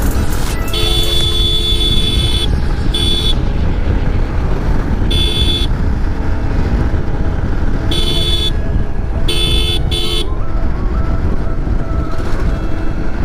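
Vehicle horn honking in repeated blasts, the first about two seconds long and the rest shorter, over the steady rumble of wind and engine on a moving motorcycle.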